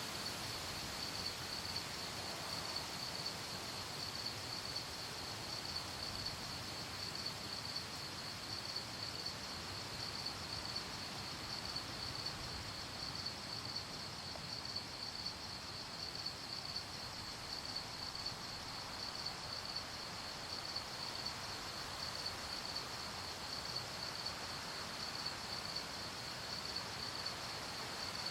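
Crickets chirping at night, a steady high pulsing trill that runs on without a break, over a soft background hiss.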